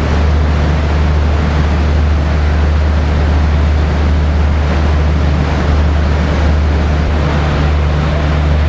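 Train noise: a steady, loud low hum with an even rushing noise over it.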